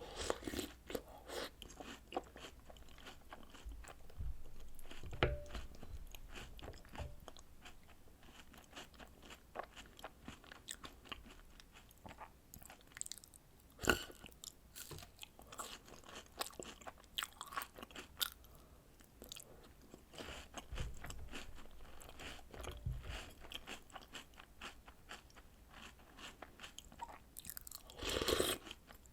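Close-up chewing and crunching of chocolate snacks (cookies, biscuit sticks, cereal) soaked in milk, an irregular run of crisp bites and wet chews with a sharp click about halfway through.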